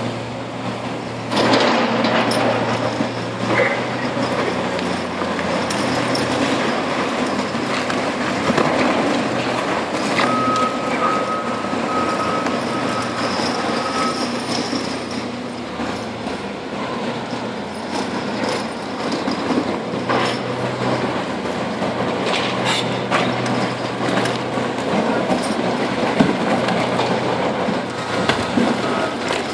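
Heavy diesel quarry machinery working: a steady engine note under continuous grinding and rattling, with scattered sharp metallic knocks.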